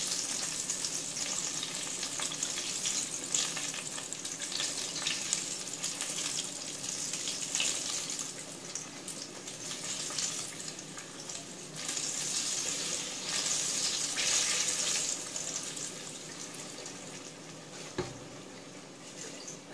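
Pear-filled hand pies frying in shallow oil in a pot, a steady sizzle with crackling. A single short knock comes near the end.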